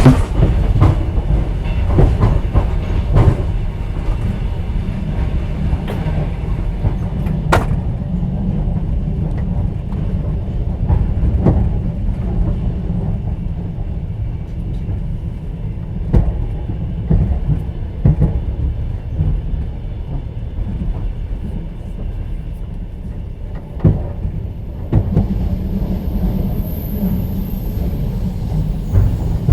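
Moving train heard from inside a passenger carriage: a steady low rumble, with irregular sharp knocks of the wheels passing over rail joints. A faint high-pitched squeal comes in about 25 seconds in.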